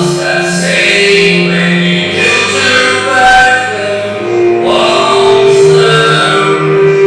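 A song: a man singing long held notes over instrumental backing.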